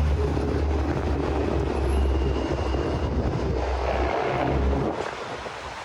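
Street traffic: the low engine rumble of a passing vehicle over general traffic noise, fading out about four seconds in.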